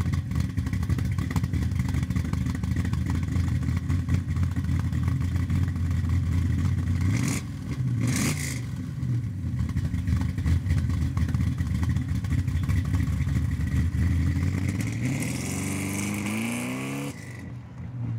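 Chevrolet Nova's engine running steadily at idle, then revving up with a rising pitch near the end as the car pulls away, cutting off sharply just before the end.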